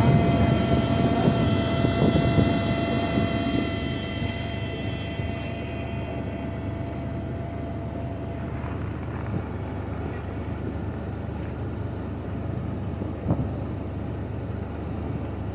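Jeep engine running at a steady low rumble, with wind on the microphone. A high whine sits over it at first and fades out over the first several seconds.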